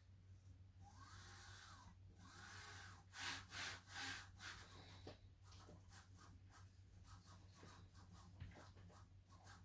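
Faint handling noise while assembling a 3D printer: a few soft rustles about three to four seconds in, then a run of small light clicks, over a steady low hum.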